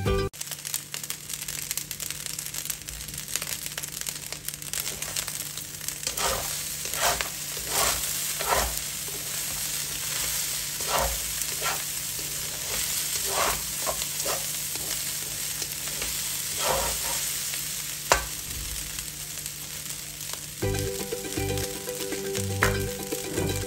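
Fried rice with chickpeas and vegetables sizzling in a wok as a spatula stirs and tosses it, with a series of short scraping strokes against the pan. One sharp clack comes late on.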